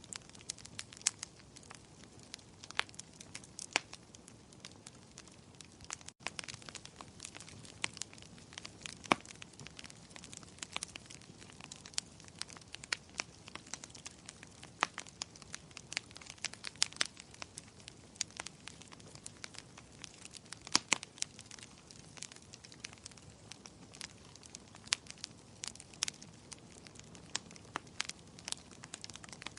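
Wood fire crackling in a fireplace: irregular sharp pops and snaps over a soft, steady hiss. The sound drops out for a split second about six seconds in.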